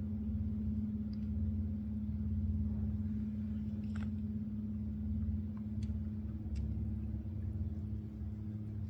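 Small boat's motor running steadily at low speed, a constant hum with a low rumble under it, with a few faint clicks.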